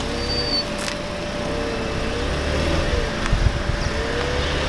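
Mercedes-Benz SLK roadster's engine running as the car creeps slowly into a driveway, a low rumble with a faint tone that wavers up and down a few times.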